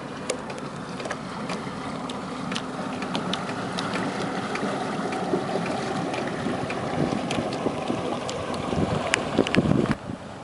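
2010 Sea Ray 220 Sundeck deck boat under way: its engine running steadily with the rush of the hull through the water and wind buffeting the microphone. The sound grows louder toward the end, then drops suddenly just before the end.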